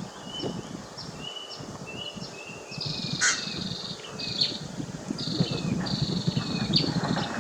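Blue-throated bee-eaters calling: a string of short, sharp high calls, several a second, joined from about three seconds in by longer rolling trills that overlap one another.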